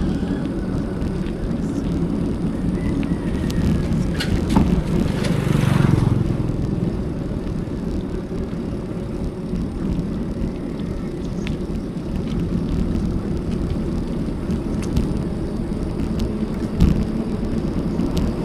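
Wind buffeting an action camera's microphone while riding a bicycle, with tyre noise on the road and occasional small clicks. About five seconds in there is a brief louder rush.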